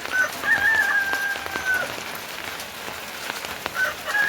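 Steady rain falling, with scattered drips and patters. Twice, a drawn-out call of about a second and a half sounds over it, falling slightly in pitch at the end.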